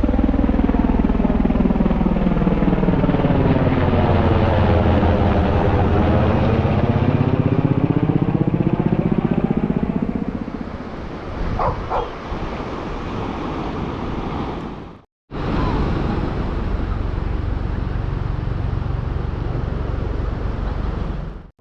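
Aircraft passing low overhead: a loud engine noise whose sweeping phasing tone dips and then rises again as it goes over, then fades after about ten seconds. A dog barks twice about 12 seconds in. The sound cuts out briefly about 15 seconds in, then a steady background rumble carries on.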